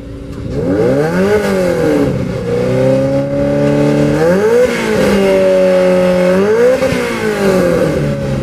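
Car engine being revved: its pitch climbs and drops back three times, held steady at a raised speed in between.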